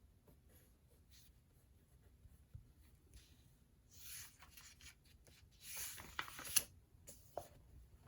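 Faint scratching of a pen writing on paper, in short strokes, with the longest and loudest stretch of scratching and a few sharp clicks a little past the middle.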